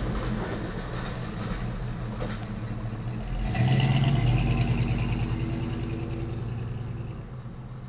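Rumble of a departing freight train fading away, then a road vehicle's engine comes up suddenly about three and a half seconds in and slowly fades again.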